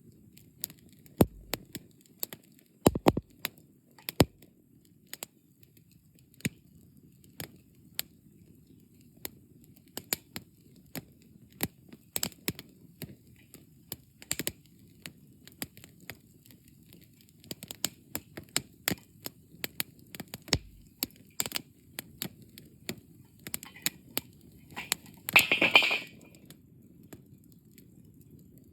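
Wood campfire crackling and popping, with irregular sharp snaps of burning logs over a faint low rumble of flame; the collapsed fire is burning down toward embers. Near the end a denser, louder burst of crackling lasts about a second.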